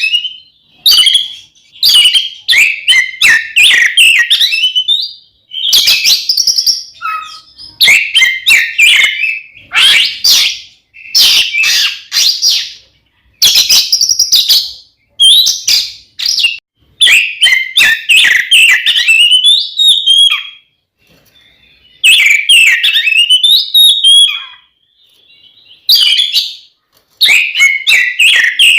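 Oriental magpie-robin (kacer) singing its loud, open-throated fighting song: rapid varied phrases a second or two long, broken by short pauses, with a longer pause a little after the middle.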